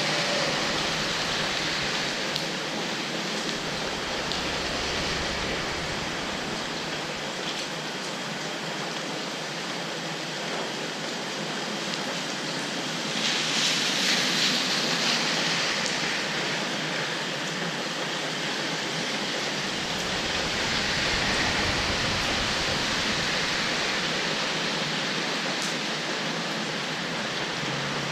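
Steady rain, a dense even hiss, swelling louder for a couple of seconds about halfway through.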